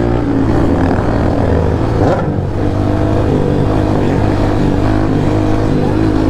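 Motorcycle engine running steadily while riding, with other vehicles' engines around it, and a brief rise and fall in engine pitch about two seconds in.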